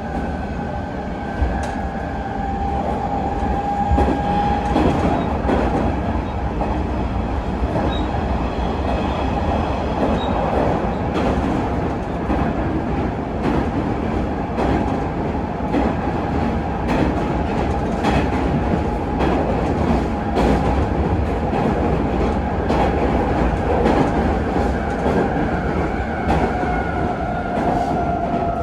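Hanshin 9000 series electric train running at speed, heard from inside the car. The whine of its Mitsubishi GTO VVVF inverter and traction motors holds steady over the wheel rumble and repeated rail-joint clacks. Near the end the whine sinks slightly in pitch.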